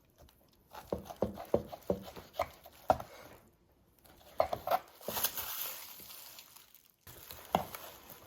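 A knife cutting through a whole cured Serrano ham against the bone: irregular light taps and knocks of the blade and meat on the board, with a short scraping rasp about five seconds in.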